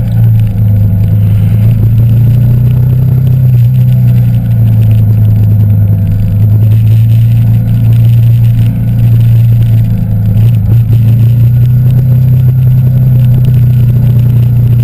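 Yamaha YZF-R15 v2.0's single-cylinder engine running under way at a steady cruising pace: a loud, even, low drone that holds its pitch, with a brief dip about ten seconds in.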